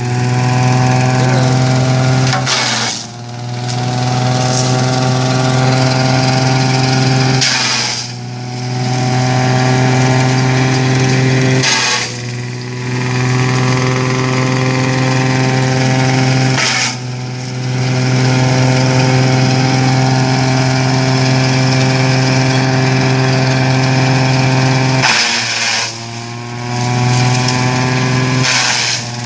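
Tractor-driven coconut leaf shredder running steadily. About five times, at intervals of a few seconds, a burst of shredding noise comes as fronds are fed in, and the machine briefly slows under the load before the pitch climbs back up.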